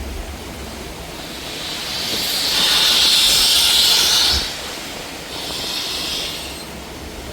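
Steam locomotive letting off steam: a loud hiss swells over a couple of seconds and cuts off sharply about four seconds in, followed by a second, quieter hiss, over a low steady rumble.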